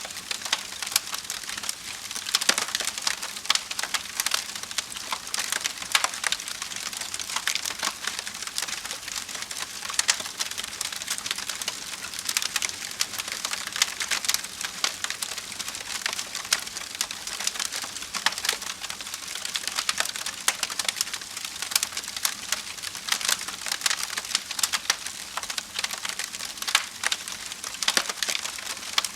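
Wood fire in a fireplace crackling steadily, with dense irregular pops and snaps over a soft hiss.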